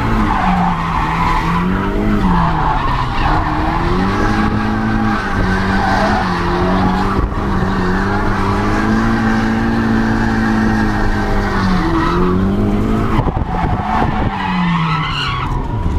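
Turbocharged Nissan SR20DE engine of an S13 heard from inside the cabin while drifting, its revs rising and falling repeatedly, with tyres skidding. Near the end the revs drop and then climb again.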